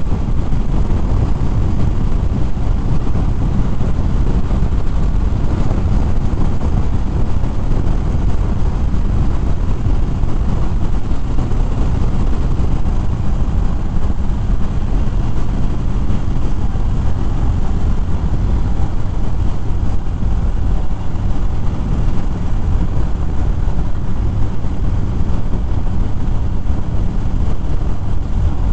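Harley-Davidson Fat Bob's V-twin engine running steadily while riding, with heavy wind rush over the microphone.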